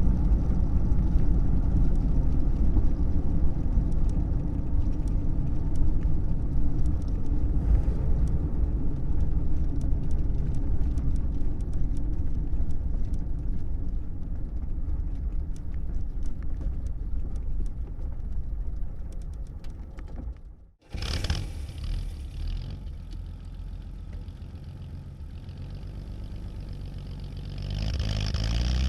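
1937 Plymouth's flathead straight-six running, heard from inside the cabin as the car drives and then slows toward a stop. After a sudden break the cabin is much quieter, and near the end the engine starts and settles into an idle.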